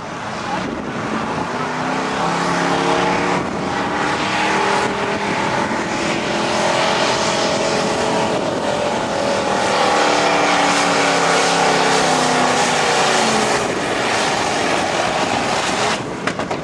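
Modified 4x4 pulling truck's engine at full throttle hauling the weight-transfer sled down the track. Its pitch climbs over the first several seconds, holds, then falls back near the end as the run winds down.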